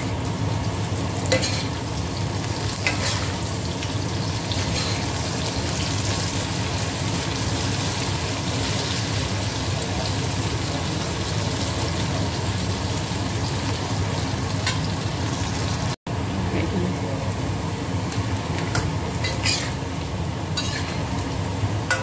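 Tempe strips, chilies and garlic sizzling in hot oil in a stainless steel wok as they are stirred, with a metal spatula scraping and clicking against the wok now and then.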